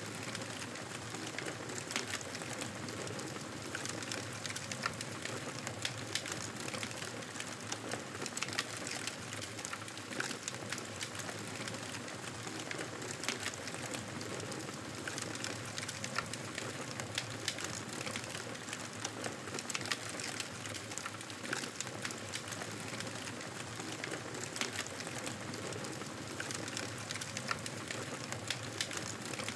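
Campfire burning, the wood crackling and popping in frequent, irregular sharp snaps over a steady hiss of flames.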